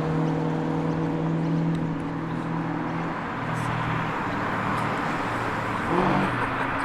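Car engine idling steadily, its pitch holding level.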